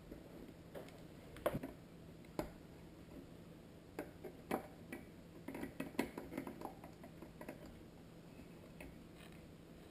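Scattered light clicks and knocks of hard plastic and metal parts as a bi-xenon projector is tightened into a headlight housing, with a busier run of small clicks in the middle and little after.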